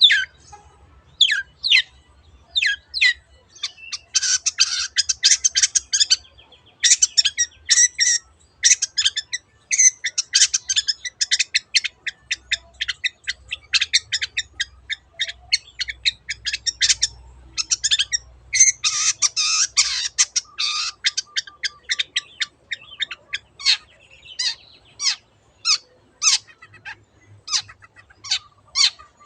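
Long-tailed shrike (cendet) singing: a run of sharp, separate call notes broken by stretches of rapid, dense chattering.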